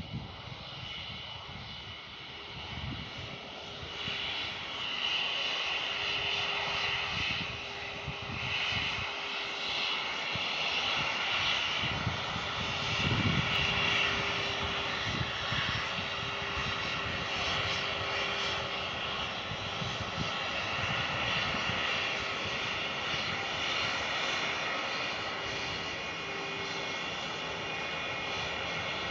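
Airliner's engines at takeoff power: a steady rushing whine with a held tone, growing louder about four seconds in and staying loud.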